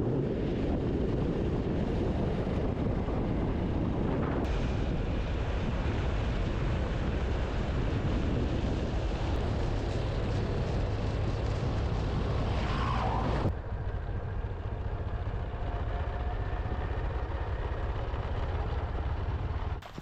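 Motorcycle in motion: steady wind rush and rumble on the microphone with the engine running underneath. About two-thirds of the way through it drops to a quieter, thinner rush.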